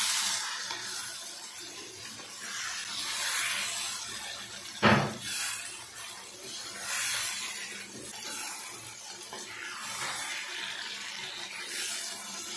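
Spiced liver sizzling in a cast-iron kadai while a wooden spatula stirs it, the hiss swelling every second or two with each stroke. One louder knock of the spatula against the pan comes about five seconds in.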